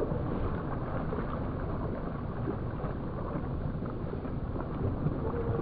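Steady low rumble of wind on the microphone between a herring-type gull's calls. A faint start of the gull's cry comes in right at the end.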